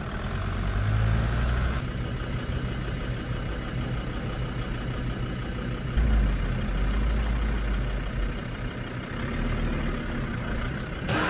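Engine of an aging off-road 4x4 running steadily with a low rumble. The sound changes abruptly about two seconds in, and the low rumble swells about six seconds in.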